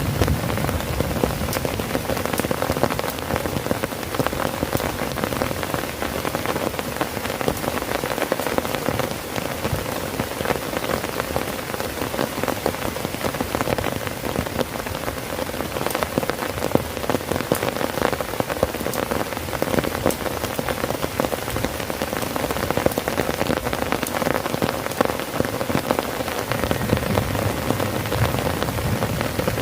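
Heavy rain falling steadily on a tent, a dense patter of drops hitting the fabric. A deeper low rumble comes in near the end.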